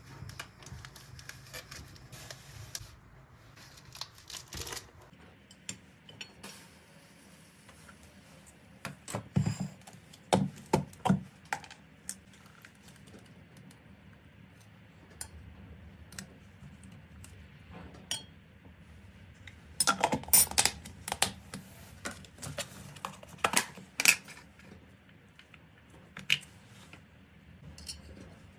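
Dishes and cutlery being handled: scattered clinks and knocks, with louder clusters about a third of the way in and again past two-thirds.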